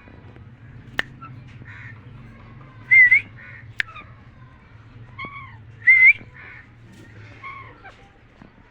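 Alexandrine parakeet giving two loud, short rising whistles about three seconds apart, with softer chattering notes between them and a couple of sharp clicks.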